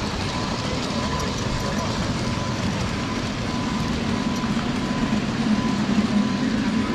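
Ride-on railroad train running along the track: a steady rumble of wheels and drive, with a low hum growing louder about four seconds in.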